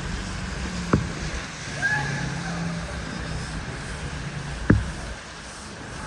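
Street ambience with a vehicle engine humming low and a wet hiss, broken by two sharp knocks, one about a second in and a louder one near the end, and a brief high squeal around two seconds in.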